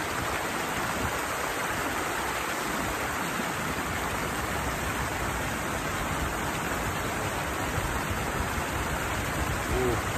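Steady rushing of water pouring over a small weir or waterfall into a stream, an even wash of noise with no breaks.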